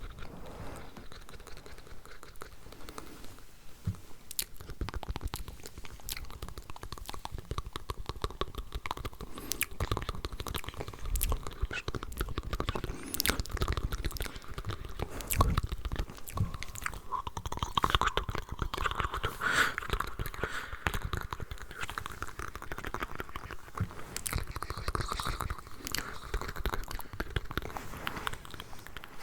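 Layered ASMR mouth sounds close to the microphone: dense, irregular wet clicks and smacks of lips and tongue. Through the middle stretch they are joined by a soft hiss of layered, unintelligible whispering.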